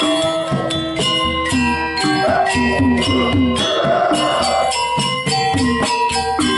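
Balinese gamelan playing: struck bronze metallophones ring out in quick successive notes over low drum strokes, with a dense jangling clash in the middle.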